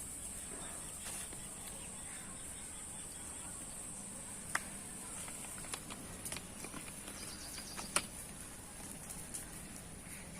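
Faint, steady, high-pitched chirring of insects, with a few sharp clicks.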